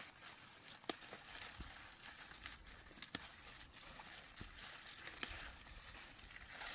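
Faint rustling and handling noise with scattered sharp clicks and snaps, about one or two a second.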